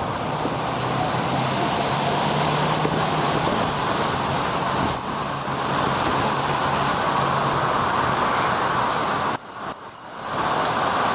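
Steady rush of wind and wet-road noise from a bicycle ride in the rain, with a vehicle's low hum through the first several seconds. Near the end a bicycle bell rings with three quick strikes.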